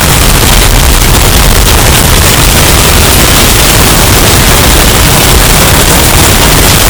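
Hurricane storm sound effect, bass-boosted until it distorts: a steady, very loud wall of crackling, clipped noise with heavy low rumble and no letup.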